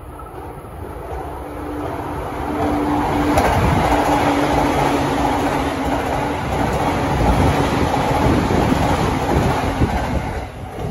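Electric commuter train passing at about 107 km/h. The rush of wheels on rail swells over the first few seconds, holds loud with a steady hum and some clickety-clack, then drops away near the end.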